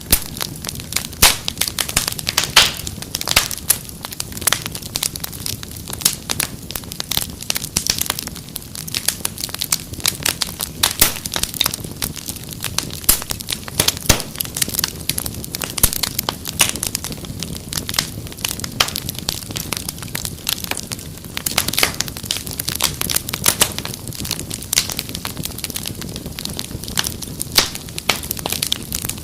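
Wood fire crackling and popping steadily, with many sharp irregular snaps over a low steady bed of flame noise.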